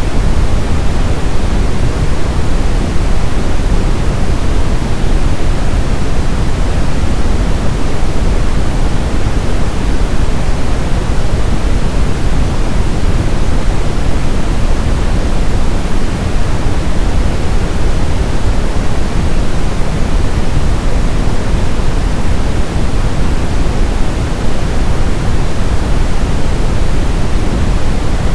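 Brown noise: a steady, deep hiss strongest in the low end, with no changes or events.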